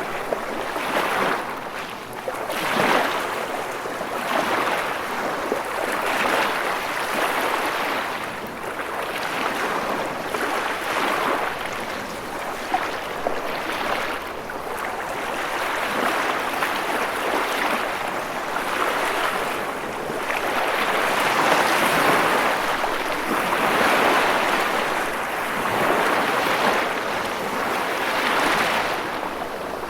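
Ocean waves breaking and washing on a shore, a continuous rushing surf that swells and recedes every few seconds.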